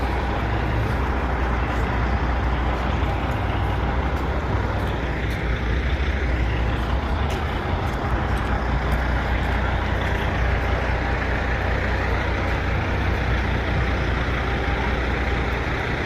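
Diesel truck engines idling, a steady low rumble under a constant hiss of rain.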